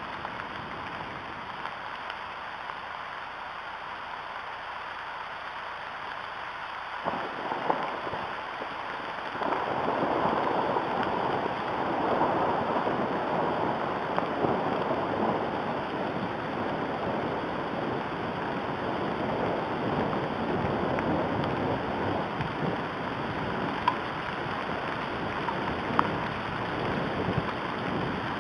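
Steady rain falling on the nest and surrounding trees, growing heavier about a third of the way in, with a few sharp taps of drops.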